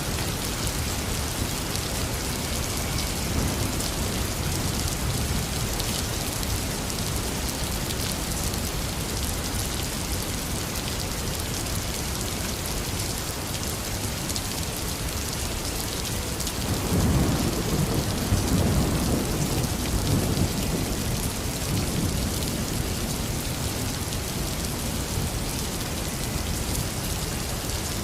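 Heavy rain falling steadily, with a roll of thunder rumbling in a little past the middle and dying away over several seconds.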